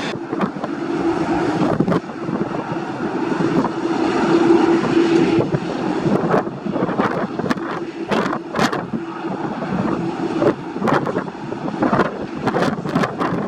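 Airliner engine noise at an airport with a steady hum throughout, fading near the end. From about halfway, wind buffets the microphone in repeated gusts.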